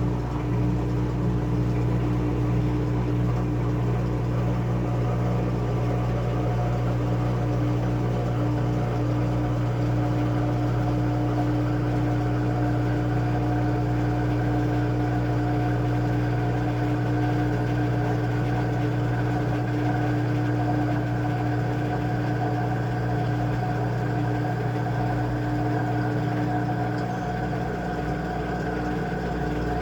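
Washing machine running with a steady motor hum made of several constant tones; the hum changes slightly and drops a little in level near the end.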